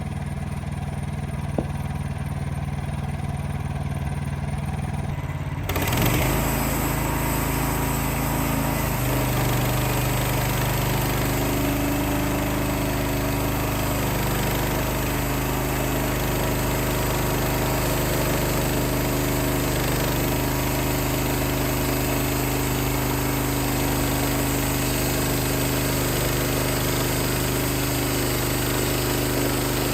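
Engine idling, then about six seconds in it suddenly runs louder and steadily, with a hiss over it, typical of a portable sawmill's engine throttled up for a cut.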